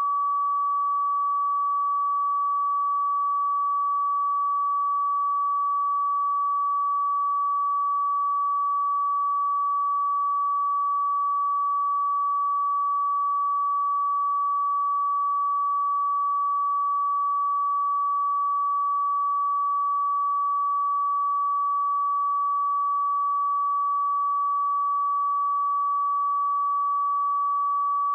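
A steady, unbroken 1143 Hz sine-wave test tone: a single pure pitch at constant level, used to check speakers or headphones.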